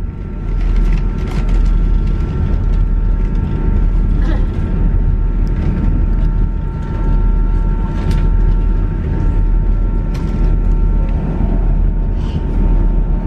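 Inside a moving passenger train carriage: a steady low rumble of wheels on the rails, a constant high whine, and scattered clicks and creaks from the carriage.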